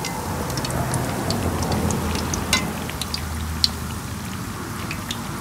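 Breadfruit slices frying in hot oil: a steady sizzle with scattered sharp pops and crackles.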